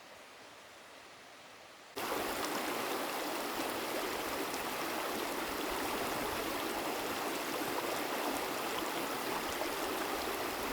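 A river running steadily, its even rush starting abruptly about two seconds in; before that only a faint steady hiss.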